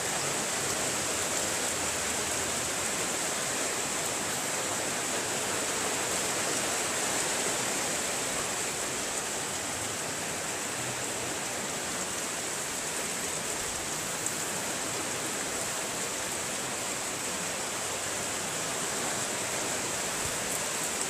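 Rain falling steadily: a continuous, even hiss with no breaks.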